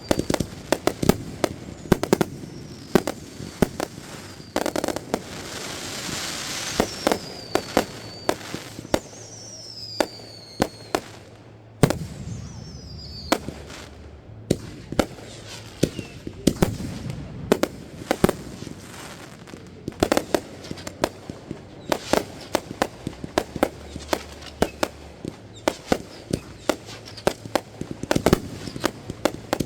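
Fireworks going off: a continual run of bangs and pops, with several falling whistles in the first half and a spell of crackling a few seconds in.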